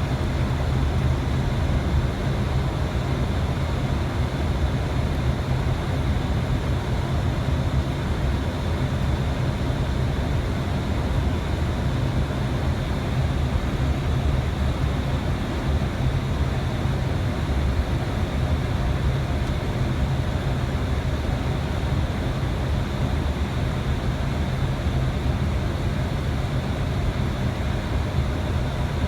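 Steady flight deck noise of an Airbus A320 in flight: an even rush of air with a strong low rumble underneath, unchanging throughout.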